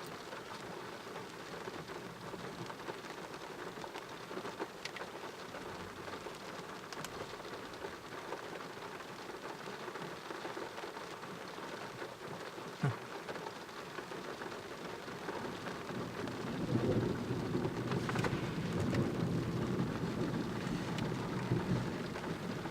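Rain falling steadily in a thunderstorm, with a single sharp tap a little past halfway. About two-thirds of the way through, a low rumble of thunder builds and keeps on to the end.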